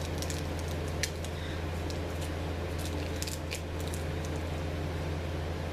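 A person chewing pickled sausage close to the microphone: scattered wet mouth clicks and smacks over a steady low hum.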